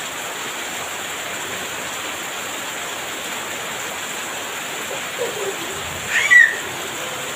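Heavy rain falling steadily as an even hiss. About six seconds in, a brief high-pitched gliding sound cuts in over it.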